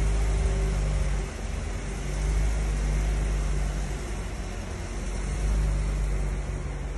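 A Renault SUV's engine running at a steady idle inside an underground car park: a low rumble with a faint hum that fades out and returns.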